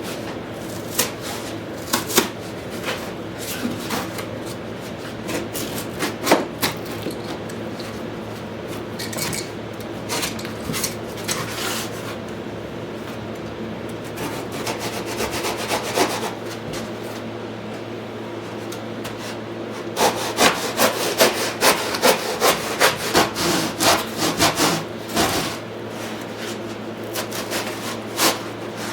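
Workshop handwork: scattered knocks and scrapes, then a run of fast, even rubbing or sawing strokes, about three to four a second, over the steady hum of an air handler.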